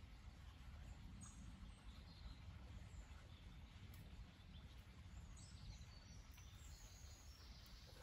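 Near silence: a faint steady low rumble with scattered faint, high bird chirps, more frequent in the second half.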